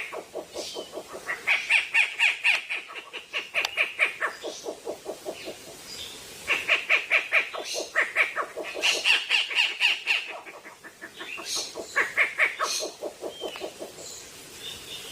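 A bird calling in fast trains of harsh, repeated notes, about eight to ten a second. The trains come in several phrases of one to three seconds with short pauses between them.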